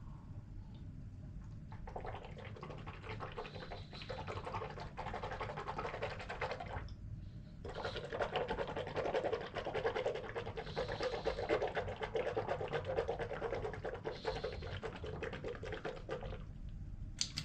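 A person gargling water in the throat: two long gargles, the first about five seconds and the second about eight seconds, with a short pause between them. A brief sharp sound comes at the very end.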